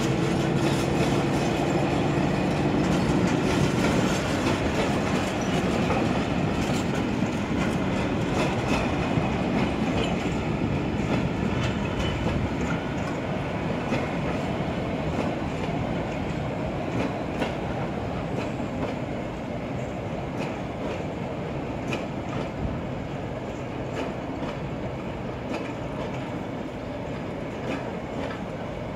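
A freight train of empty stake flat wagons rolling slowly over the yard tracks: a steady rumble of wheels with scattered clicks over rail joints, gradually fading.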